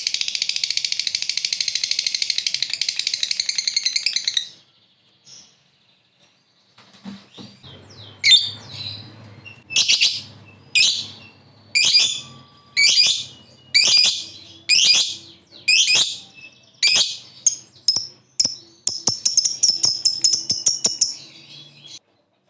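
Lovebird singing its long chattering trill ('ngekek'), a very rapid high-pitched run of notes that stops about four seconds in. After a short pause it gives a string of separate shrill calls about one a second, ending in another brief rapid trill.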